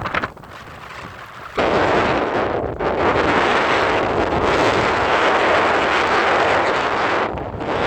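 Thunder in a snowstorm (thundersnow): a loud rumble that breaks in suddenly about a second and a half in and carries on for about six seconds, with wind buffeting the microphone.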